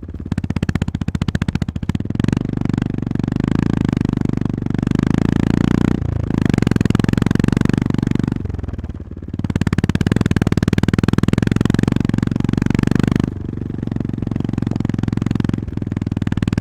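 Honda GB350S's air-cooled single-cylinder engine running under way, with the throttle backing off and opening again a few times; the deepest dip comes a little after eight seconds in.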